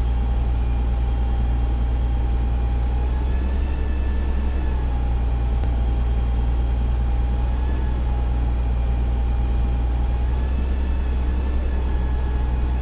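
Fire engine's diesel engine running steadily, heard from inside the cab: a constant deep hum with a whine that wavers slightly in pitch every few seconds.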